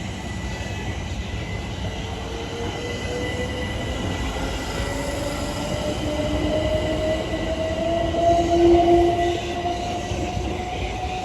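Electric passenger train running on the rails, with a whine from its traction motors that rises steadily in pitch as it picks up speed. There is a low rumble underneath, and the train is loudest near the end.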